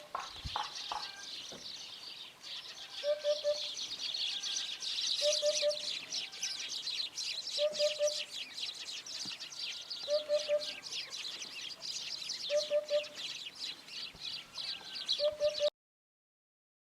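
Eurasian hoopoe calling its soft, low three-note "oop-oop-oop", repeated six times about every two and a half seconds, over a dense high chirping. The recording cuts off suddenly near the end.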